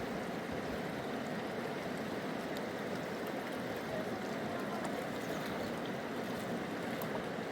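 A stream's water rushing steadily.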